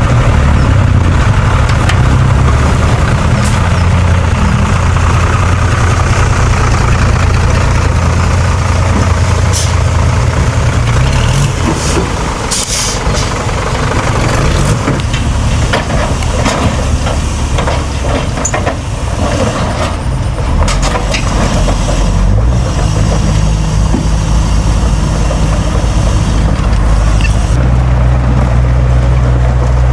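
Heavy diesel earthmoving machinery running loudly, with short hisses and clanks about midway and the engine note changing.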